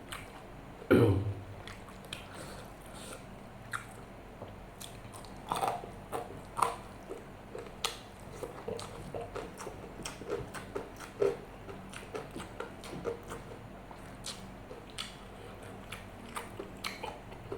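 Close-miked chewing and biting of food, wet mouth clicks and small crunches. A louder, short low sound comes about a second in.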